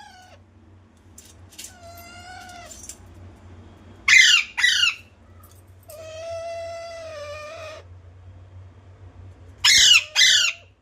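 A pet parrot calling: long, drawn-out cries alternate with two pairs of short, loud squawks, one pair about four seconds in and one near the end.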